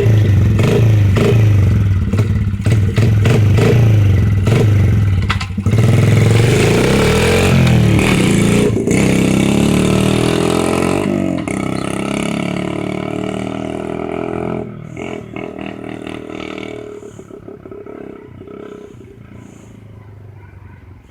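Small dirt bike engine running close by and revving up and down, then fading steadily over the second half as the bike pulls away.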